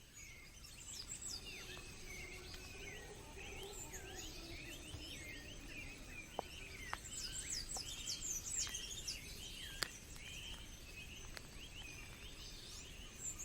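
Forest ambience: many small birds chirping and calling in quick overlapping high notes over a faint steady hiss, with a few sharp clicks scattered through the middle.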